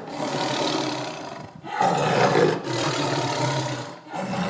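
Dinosaur roar sound effect: a run of loud, rough roars broken by short gaps.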